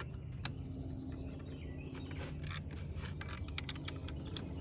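Hand ratchet with a half-inch socket working bolts off a riding mower's clutch, giving a few scattered clicks over a steady low background rumble.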